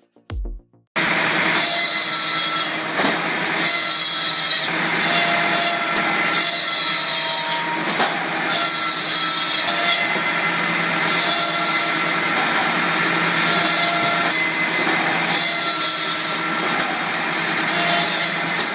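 Wood-cutting machinery sawing through wood, starting about a second in and going in a series of repeated cuts, each surge lasting a second or two, with a faint whine from the blade.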